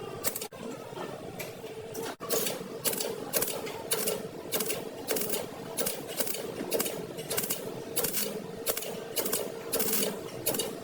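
Repeated scraping strokes of hand abrasive work on car bodywork, about two a second, over a steady hum.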